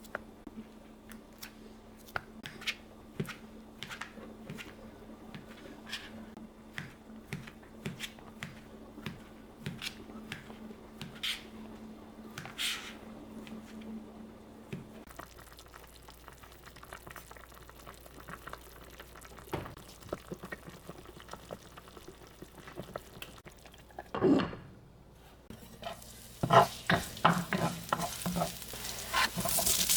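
Food frying in a pan, stirred with a utensil that taps and scrapes against the pan in many short clicks. A low steady hum stops about halfway through, and near the end the sizzling and clatter get louder.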